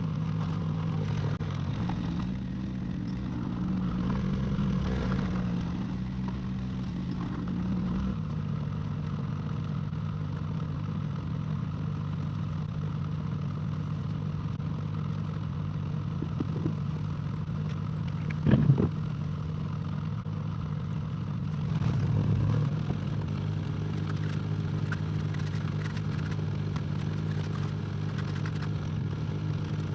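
Excavator's diesel engine running steadily, its pitch dropping slightly about a quarter of the way in, with a sharp clank about two-thirds through and a brief swell in engine level soon after.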